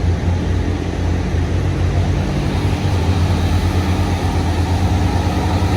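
Heavy diesel bus engine idling with a steady low hum.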